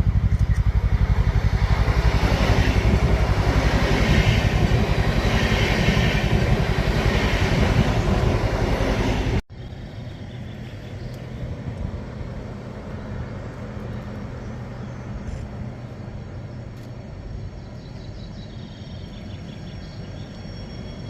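Siemens Desiro HC electric multiple unit running on test track: a loud, steady rumble of wheels and rails for about nine seconds, then a sudden cut to a quieter stretch of the train's running noise with faint high tones near the end.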